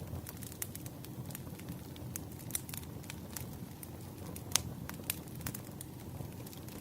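Wood fire crackling: a low steady rumble of flames with irregular sharp pops and snaps, one louder pop about halfway through.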